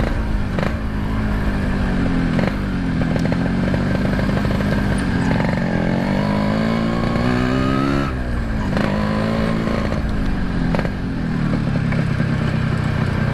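Yamaha RX-King two-stroke motorcycle engine running through an aftermarket RBK exhaust while riding. The note climbs and falls with the throttle, with a long rise that drops sharply about eight seconds in, then climbs again.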